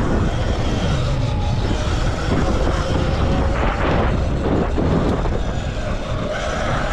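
Amped Bikes Stage 2 M1 electric motocross bike ridden at speed on a dirt track: steady rush of wind and rattle of the bike, with a faint electric motor whine that shifts in pitch.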